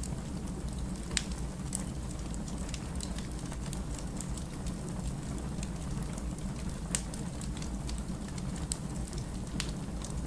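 Burning firewood crackling over a steady low rumble and hiss, with irregular sharp pops scattered through it.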